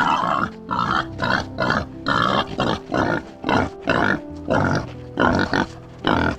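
An animal calling in a rapid series of about a dozen short, harsh calls, roughly two a second, over background music.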